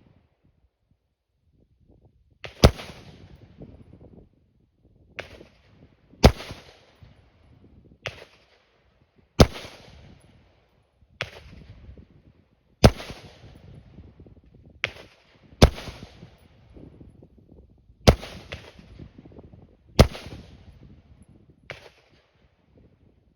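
Ruger AR-556 rifle (5.56 mm) fired in slow, single shots: about seven sharp cracks two to three seconds apart, each followed by a short echo. Fainter shots fall in between.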